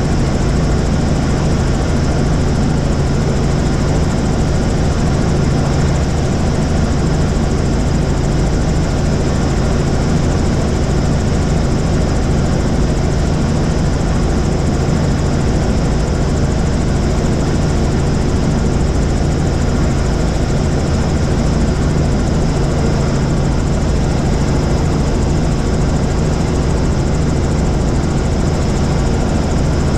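Helicopter in flight: steady, loud engine and rotor noise with a constant low drone, unchanging throughout.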